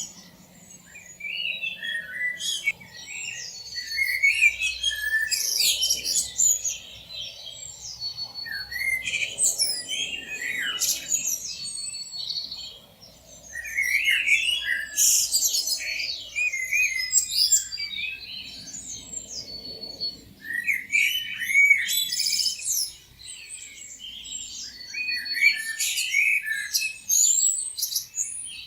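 Several songbirds chirping and singing at once: overlapping high-pitched chirps, trills and whistles that come in busy waves with short lulls between them.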